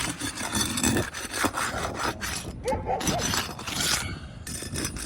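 Repeated scraping and rubbing on an asphalt roof shingle as it is worked loose for a repair attempt, in uneven strokes, with a few short squeaks.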